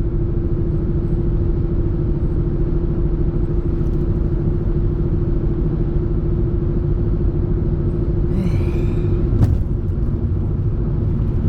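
Inside a moving car's cabin: steady road and engine rumble with a constant droning hum. Late on there is a brief wavering higher-pitched sound, then a single click.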